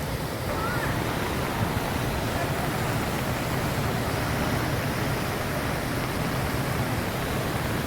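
A river in flood rushing past: a steady, even wash of water noise, heaviest in the low end.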